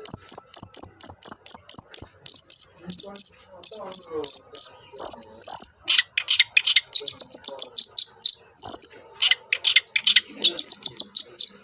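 Long-tailed shrike (cendet) singing loudly: fast runs of sharp, high-pitched repeated notes, several a second, mixed with varied harsher chattering phrases.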